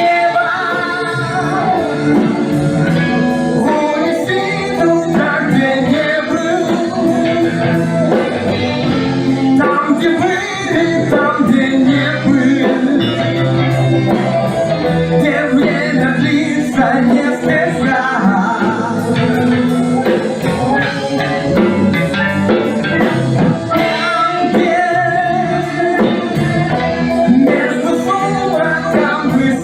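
A band playing a song, guitar and drum kit with a voice singing over them, on a steady beat.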